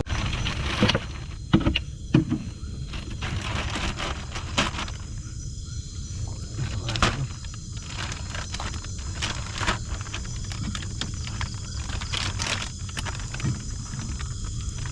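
Steady insect chorus, with scattered short knocks, taps and rustles of handling close by.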